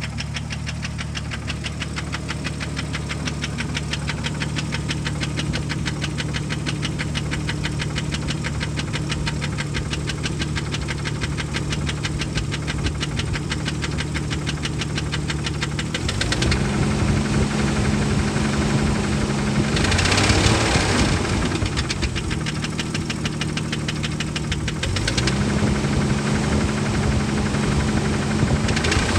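1998 Jeep Grand Cherokee's 4.0-litre inline-six running with a steady, rapid knock at idle, a sign of engine wear at 233k miles. About halfway through, the revs are raised by pressing on the throttle body and the sound changes; the engine briefly runs higher, drops back, then is held at raised revs again near the end.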